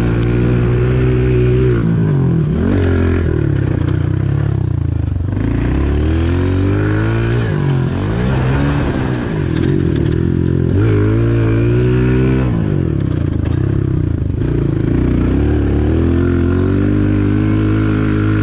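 Honda CRF125 pit bike's single-cylinder four-stroke engine being ridden hard, revving up and dropping back again and again, its pitch climbing and falling every second or two.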